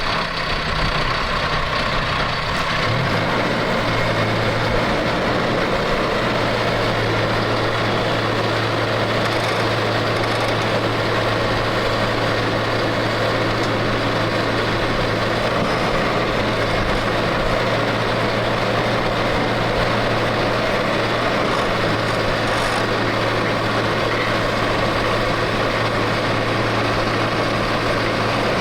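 Heavy equipment engine running steadily at one speed, a constant low hum with no revving.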